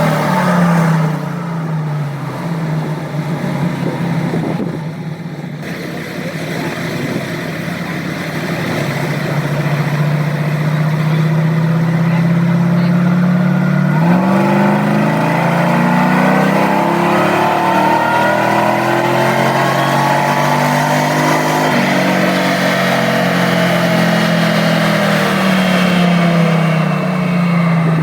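A truck engine being run up on a chassis dyno: its pitch climbs steadily over several seconds, drops abruptly twice, about halfway through and again about three quarters of the way, then winds down near the end.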